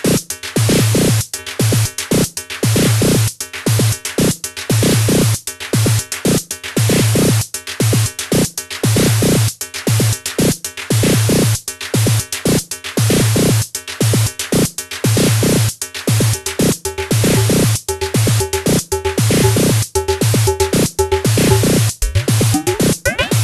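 Korg Volca Drum drum machine playing a looping electronic beat: repeated low pitched drum hits under a dense layer of noisy, bright hits. A short pitched figure repeats over the beat for the last few seconds.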